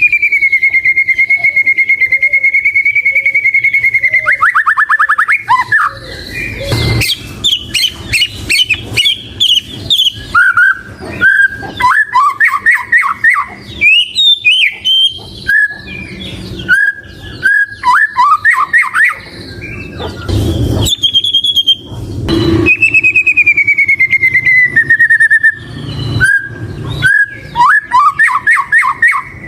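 White-rumped shama (murai batu) singing loudly. It holds one long clear whistle for about four seconds at the start, then runs into quick trills and varied short rising and falling phrases, with a second long, slowly falling whistle later on. Many sharp clicks fall between the phrases.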